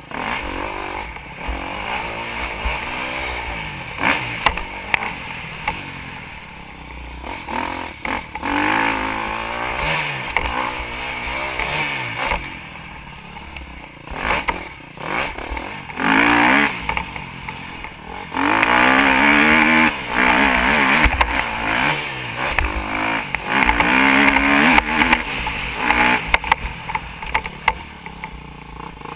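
Motocross bike engine revving hard and easing off again and again, its pitch climbing and dropping with each burst of throttle, over a constant rushing noise.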